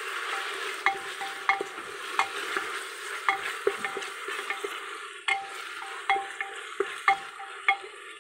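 Onions and ginger frying in hot oil in a pressure cooker, sizzling steadily, while a spatula stirs them and knocks against the metal pot with short ringing clicks, one or two a second.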